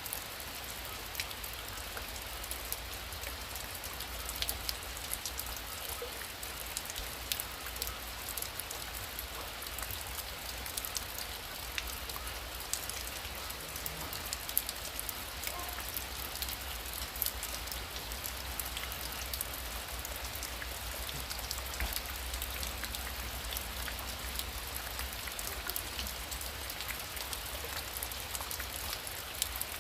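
Heavy rain falling steadily: a constant hiss dotted with many sharp individual drop impacts.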